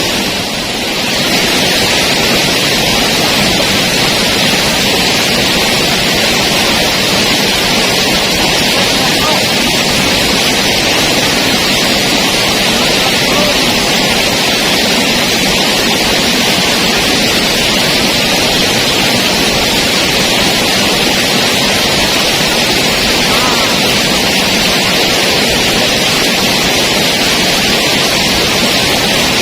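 Waterfall: a loud, steady rush of falling water, dipping briefly in level at the very start.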